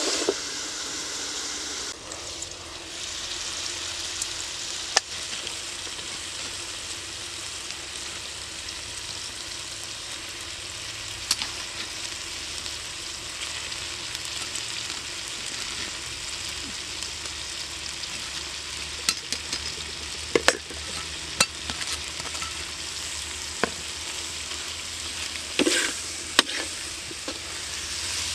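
Pork and tomatoes sizzling steadily in a hot wok, with a metal utensil clinking and scraping against the pan a few times as the food is stirred.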